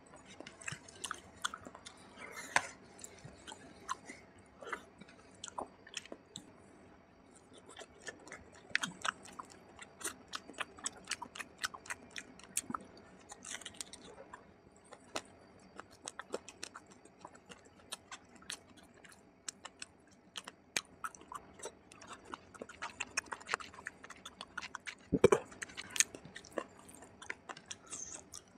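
Close-miked chewing and wet mouth sounds of a person eating oily mutton curry and rice by hand: irregular sticky clicks and smacks, with fingers squishing rice through the curry. One louder low thump comes a few seconds before the end.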